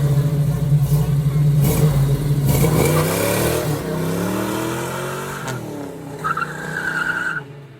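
1967 Chevelle's 350 small-block V8 with a mild cam revving hard as the car launches and pulls away, its note rising and falling through the gears and fading with distance. A rear tire is briefly spun and squeals in a one-wheel peel.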